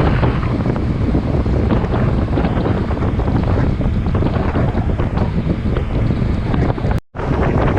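Strong wind buffeting the microphone aboard a moving boat, a dense low rumble with the rush of the boat's run underneath. The sound cuts out for an instant near the end.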